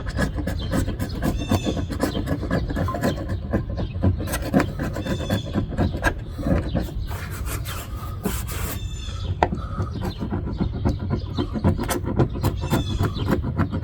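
Old window adhesive being scraped by hand from a car's quarter-window opening with a metal blade, in many short, irregular rasping strokes.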